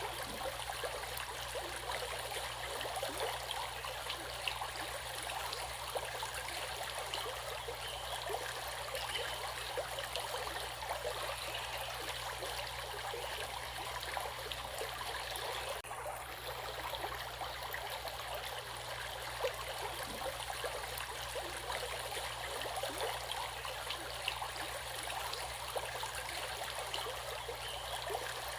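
Stream flowing: a steady rush of running water with many small splashes and trickles.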